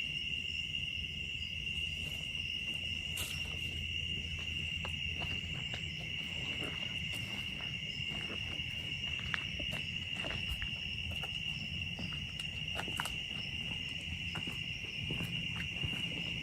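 Steady chorus of night insects, one continuous high, even buzz, with scattered light clicks and crackles over it.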